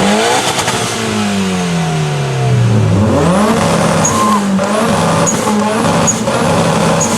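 Car engine revved hard, rising and falling in the first three seconds, then held against a two-step launch-control rev limiter, the note stuttering with sharp exhaust cracks.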